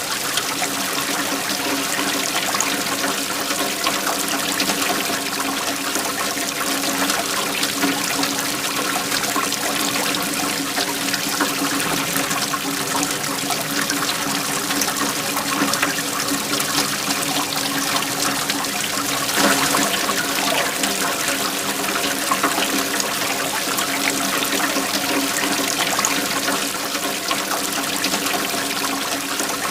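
Waterfall: a steady rush of flowing water, briefly a little louder about two-thirds of the way through.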